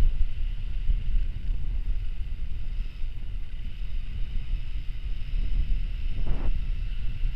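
Wind buffeting the microphone during an e-mountain-bike ride, a heavy, uneven rumble with a steady high whine above it. A short scuff of noise comes about six seconds in.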